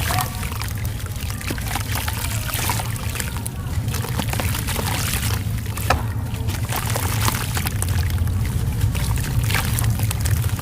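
Red gritty sand crumble being broken up wet, a dense run of fine crackles and crunches with trickling, squishy water sounds, over a steady low hum.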